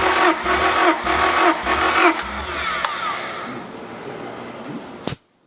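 Honda B18C Spec R 1.8-litre four-cylinder engine run in short repeated bursts for about two seconds, then a steadier sound that fades away. It ends with a sharp click near the end and sudden silence.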